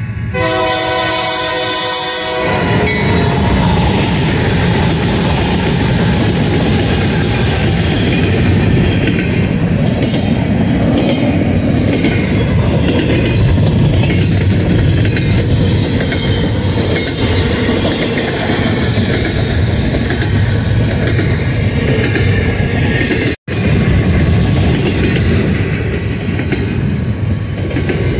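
Diesel freight train's locomotive horn sounding a multi-note chord for about two seconds, then cutting off. The train then passes close by: a loud, steady rumble with wheels clattering over the rails as double-stack container cars roll past. A split-second dropout of all sound comes near the end.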